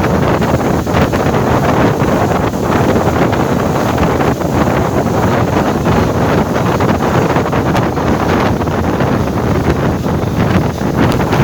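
Loud, steady wind buffeting the microphone aboard a moving passenger ferry, mixed with the boat's running and water noise.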